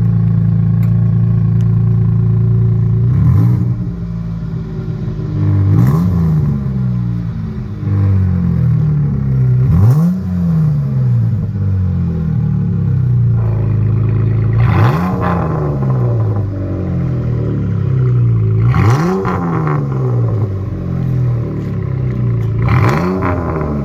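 Dodge Charger's 3.6-litre Pentastar V6 through an active catback exhaust, idling steadily and then blipped six times, each rev rising quickly and falling back to idle.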